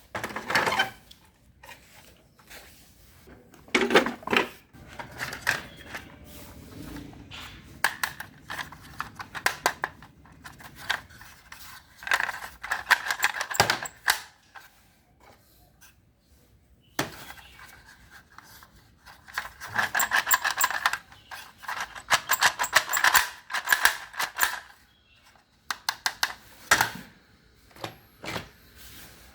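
Small hard objects being handled and knocked together: irregular clicks, clatter and rattling of plastic and metal, coming in dense runs of rapid clicking with short quiet gaps between.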